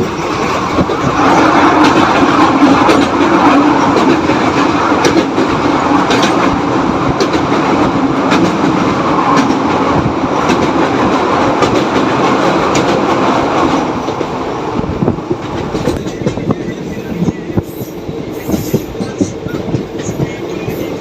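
Moving train, its wheels clattering over the rail joints under a dense running roar. The noise is loudest for most of the stretch, then eases to a quieter run about two-thirds of the way through.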